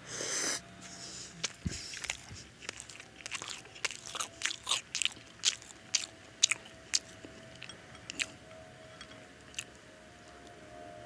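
A person eating egg-battered toast close to the microphone: a loud bite right at the start, then chewing full of short, sharp, wet mouth clicks and crunches. The chewing is busiest through the first seven seconds and thins out near the end.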